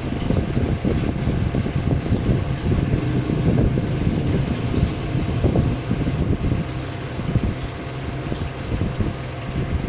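Steady low hum and rumble of a running motor, with crackling noise over it. It eases a little in the second half and then cuts off abruptly.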